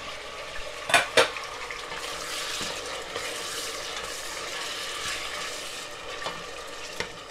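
Tomato wedges and onions sizzling in hot oil in a metal pot as they are stirred. There are two sharp knocks about a second in, typical of the spoon striking the pot.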